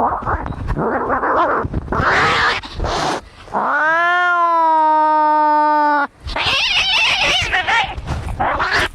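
Angry cats fighting: harsh, noisy cries, then about halfway one long, drawn-out yowl lasting about two and a half seconds, then harsh screeching cries again.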